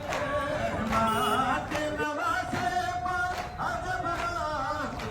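Male voices singing a wavering Muharram lament (noha), with sharp beats about once a second.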